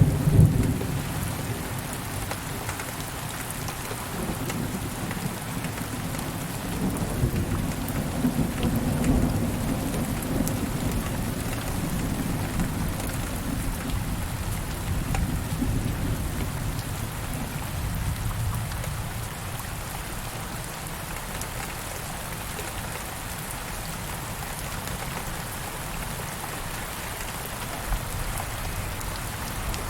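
Steady rain falling on a surface, with rolling thunder rumbling low in the background: loudest at the start, swelling again a few seconds in, then dying away, leaving only the rain.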